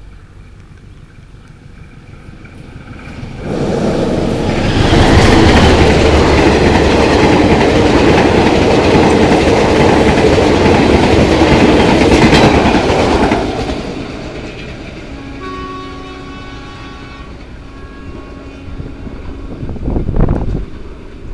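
Diesel-hauled Argo Bromo Anggrek express passenger train passing close by at speed: a loud rush of wheel and rail noise builds, holds for about ten seconds, then fades as the train draws away. A sustained horn tone sounds as it recedes, and there is a short thump near the end.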